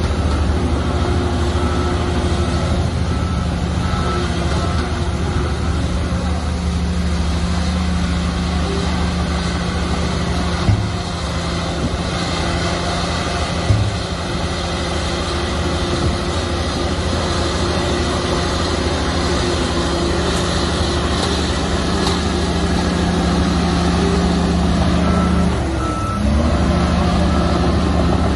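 Heavy earthmoving diesel engine running steadily. A reversing alarm beeps near the start and again near the end. There are two sharp knocks around the middle, and the engine note dips and picks back up shortly before the end.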